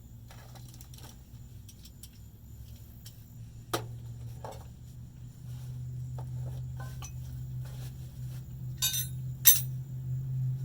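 Small metal parts and hand tools clinking and tapping, with a sharper clink about four seconds in and two more near the end, over a low steady hum that grows louder about halfway through.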